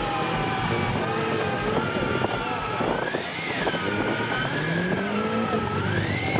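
Off-road 4x4 engine revving, its pitch rising and falling, with a rev climbing about two-thirds of the way in.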